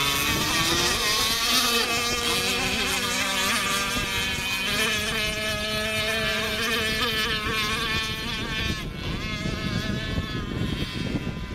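Chung Yang F273 two-stroke water-cooled model engine running in a remote-control boat, its high buzzing note rising and falling with the throttle. It grows somewhat fainter near the end.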